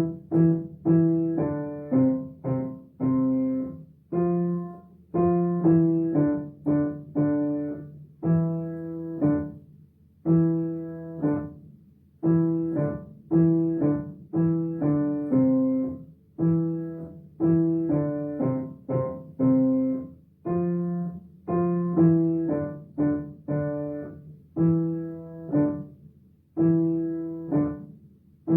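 Piano playing a simple children's-song melody without singing, one struck note at a time over low accompanying notes, in short even phrases.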